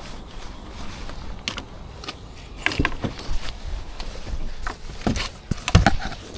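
Irregular mechanical clicks and knocks from something being handled, coming thicker and louder in the second half.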